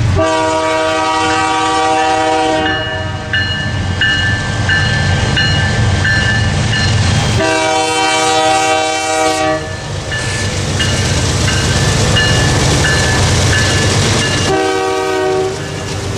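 Locomotive air horn sounding the grade-crossing pattern: two long blasts and a short one, over the low rumble of a passing train. A bell rings in steady regular strokes between the blasts.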